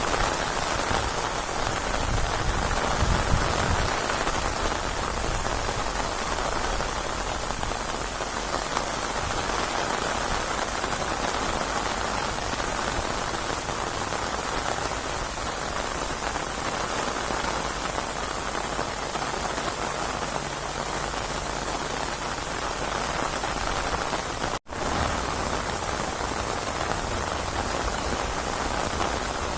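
Steady heavy rain falling, a dense even hiss across the whole range with some low rumble beneath it. The sound cuts out for an instant about 25 seconds in.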